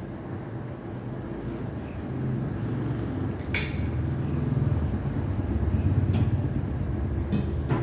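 AC TIG welding arc on an aluminium cylinder block, a steady buzzing hum that grows louder about two seconds in. A sharp click sounds about halfway through, and another comes at the end.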